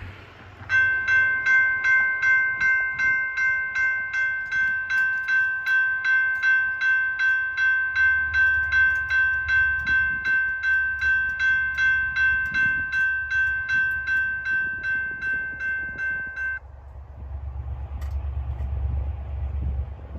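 Railroad bell ringing steadily, about two and a half strikes a second, that stops abruptly about three-quarters of the way through. Beneath it a diesel locomotive's low rumble builds and is strongest near the end.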